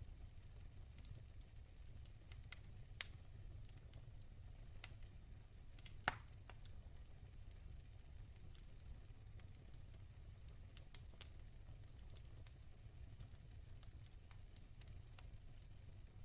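Log fire crackling softly in a fireplace: scattered small crackles, a sharper pop about three seconds in and a louder one about six seconds in, over a low steady rumble.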